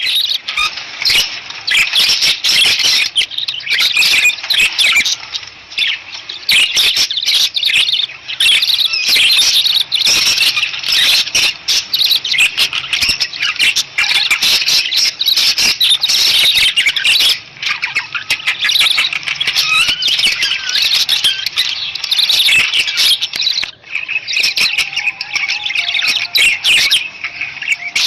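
Budgerigars chattering: a dense, continuous stream of rapid high chirps and warbles from several birds.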